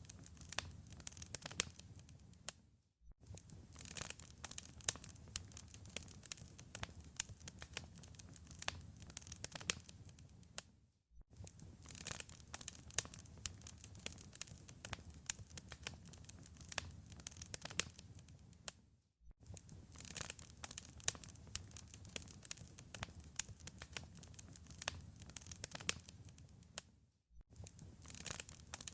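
Wood fire in a fireplace crackling: dense, irregular pops and snaps over a low rumble. It drops out briefly to silence about every eight seconds.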